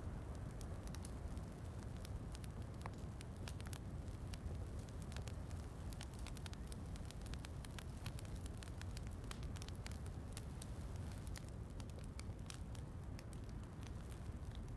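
Log fire crackling, with many small sharp pops over a steady low rumble of rain.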